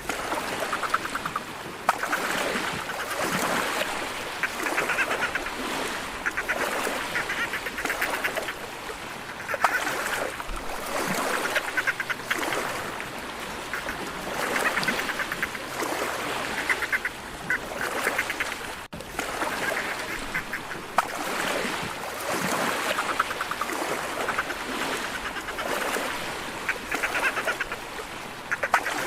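Dolphins calling: a string of buzzy, rapidly pulsed squawks and chatters, one every second or two.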